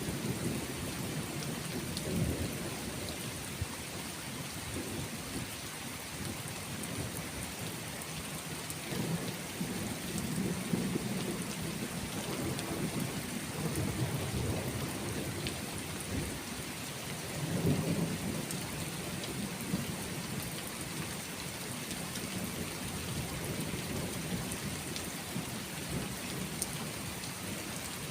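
Steady rain falling, with low rolling thunder rumbling in several swells, the strongest near the start, around the middle and about two thirds through.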